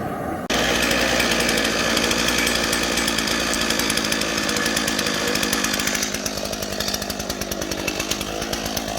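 Small petrol engine of a rail-track power tool, such as a rail saw or grinder, starting up abruptly about half a second in and running steadily with a dense high hiss. The high hiss eases about six seconds in while the engine keeps running.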